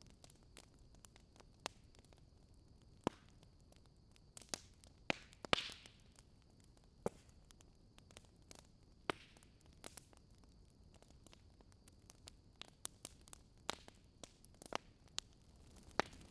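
Wood fire crackling in a fireplace: irregular sharp pops and snaps over a faint steady background, the loudest about five and a half seconds in, followed by a brief hiss.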